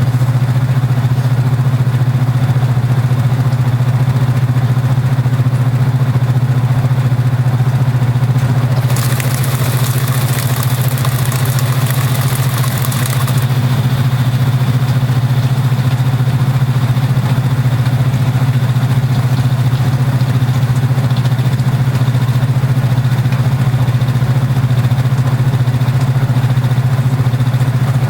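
Kenmore belt-drive portable washing machine running, with a loud, steady low hum. About nine seconds in, a rushing hiss joins it for about four seconds, then stops.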